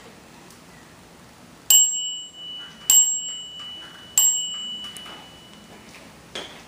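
Three bright chime dings about a second apart, each a high, clear tone that rings on briefly and fades.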